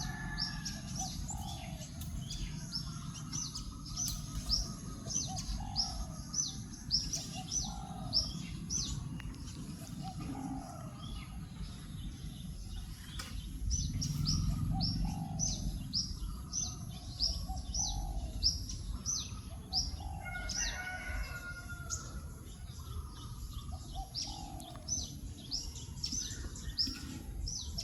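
Small songbirds chirping: runs of quick, high, falling chirps, a few a second. Lower, softer notes repeat every second or two, over a steady low rumble.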